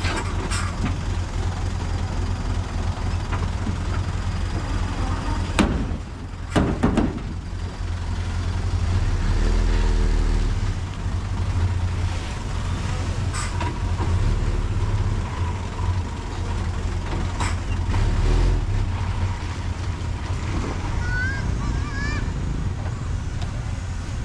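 Heavy diesel earthmoving machinery running with a steady low rumble. A few sharp clanks come about six to seven seconds in, and the engine note rises briefly around ten seconds in.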